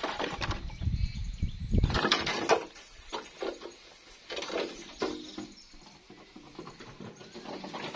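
Knocking and handling of wood or bamboo for about two seconds, then a few short animal calls.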